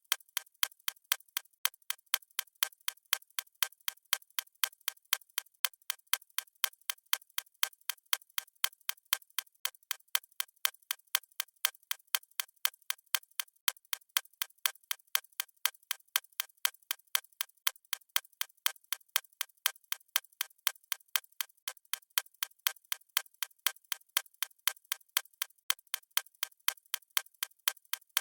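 Clock-tick sound effect: a steady, evenly spaced run of sharp, thin ticks with no low end, keeping time for a countdown timer.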